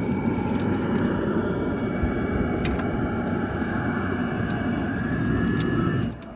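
Steady machine noise with a faint high whine, broken by scattered sharp clicks. The noise drops off suddenly near the end.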